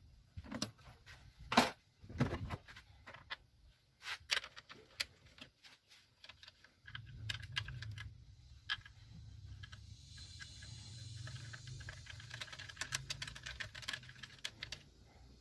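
Irregular clicking and knocking of hand tools working on the engine, with one sharp knock about one and a half seconds in. A steady low hum starts about seven seconds in, under more clicking.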